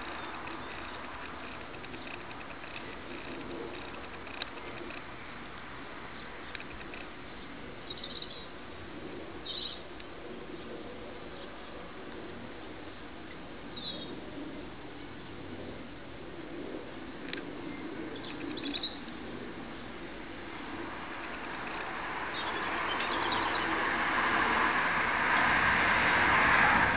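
Garden birds giving short, high chirps and thin calls every few seconds. Behind them is a steady outdoor hiss that grows louder over the last several seconds.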